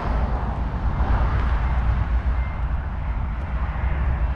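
Low, steady rumble of a freight train of centre-beam lumber flatcars and boxcars on the track, without distinct wheel clicks.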